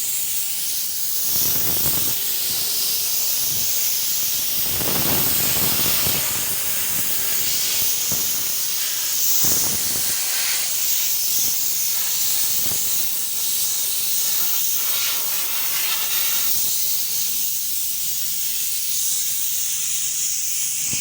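Paint spray hissing steadily while an engine part is being painted, with several louder, fuller gusts of spray.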